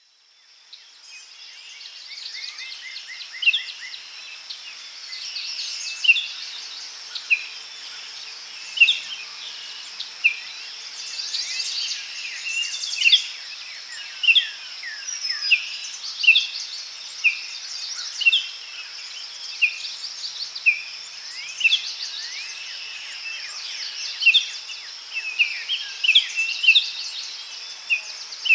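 Daytime forest ambience fading in: birds singing, with repeated short, falling chirps about once a second, over a steady high-pitched insect drone.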